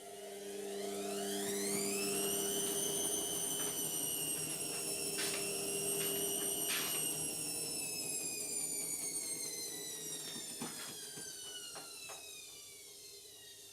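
Indesit washing machine spinning: the motor whine rises in pitch as the drum speeds up, holds, then slowly falls away. A steady low hum underneath stops about halfway through, and there are a few light clicks.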